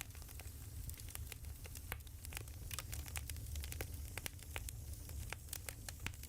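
Burning wood fire crackling: irregular sharp snaps and pops, several a second, over a low steady rumble.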